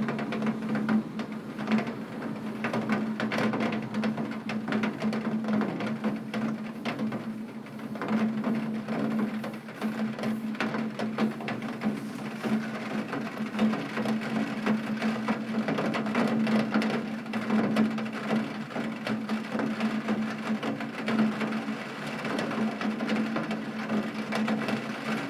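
Heavy rain hitting a window: a dense, steady patter of drops tapping the glass, with a steady low hum underneath.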